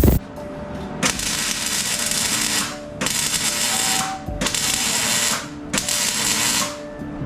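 Shop metalwork on a steel chassis: about five harsh, hissing bursts, each a second or two long, starting and stopping abruptly with short gaps between.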